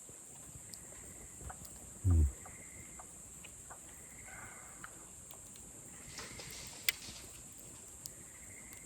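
Campfire crackling softly with scattered small pops and one sharp snap near the end. About two seconds in comes a short, low grunt that falls in pitch, the loudest sound.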